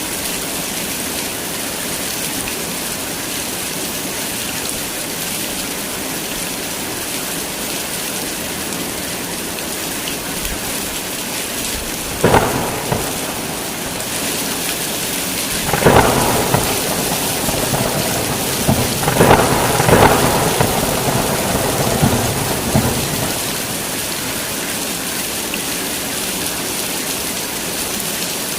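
Heavy rain falling steadily, with thunder: a crack about halfway through, another loud clap a few seconds later, then a longer run of rumbling before it dies back to rain alone.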